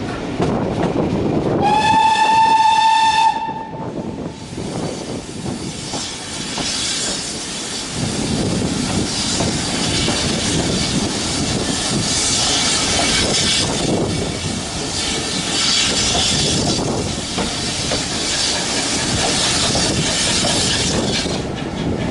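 A steam locomotive whistle blows once, a single steady note lasting under two seconds, near the start. Then comes the continuous clatter and hiss of the steam train running along the track.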